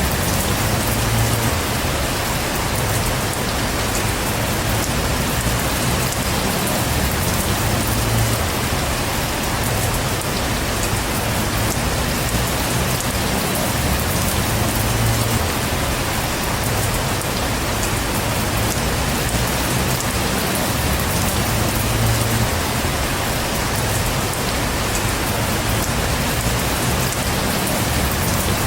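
Heavy rain falling steadily in a dense, even hiss, with a low rumble underneath that swells and fades about every seven seconds.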